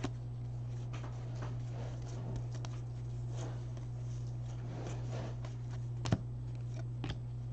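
Faint rustling and light ticks of trading cards being slid and flipped through by hand, over a steady low hum. A sharper click about six seconds in, and a smaller one a second later.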